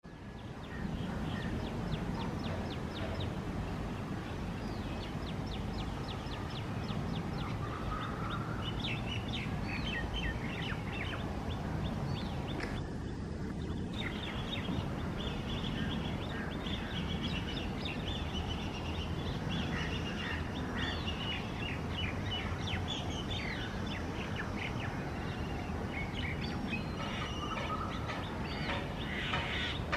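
Small birds chirping and twittering throughout, with a fast run of evenly repeated high chirps in the first few seconds. Under them is a steady low rumble of background noise.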